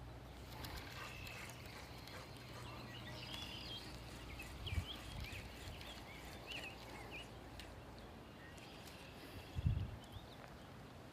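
Faint outdoor birdsong: many short chirps and whistles, with two brief low thumps, one about halfway through and one near the end.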